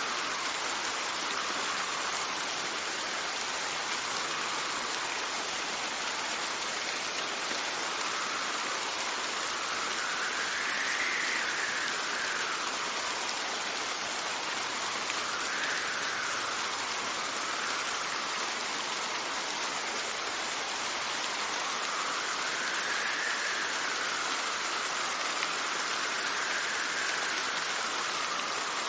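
Steady rain hissing, with gusts of wind whose tone rises and falls every few seconds.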